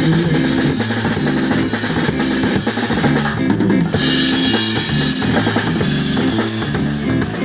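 Live band playing: a drum kit with bass drum and snare drives a repeating low bass line.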